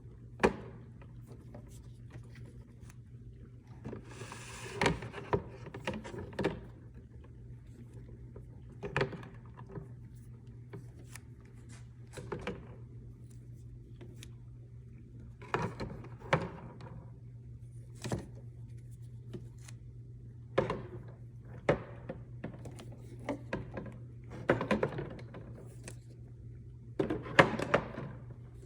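Food containers and items being set down and moved around in a refrigerator, making scattered knocks and clunks, with a brief rustle about four to five seconds in. A steady low hum runs underneath.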